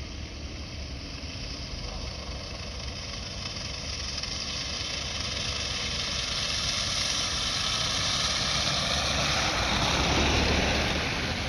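Decorated truck (dekotora) driving past, its engine sound growing steadily louder as it approaches, loudest about ten seconds in, then falling away.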